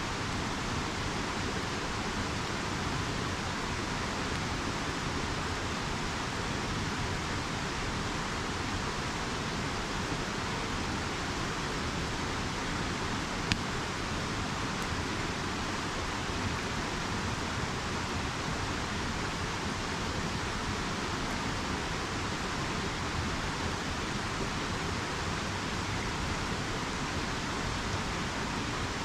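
A river flowing steadily, with the occasional sharp pop of a crackling campfire, the loudest about halfway through.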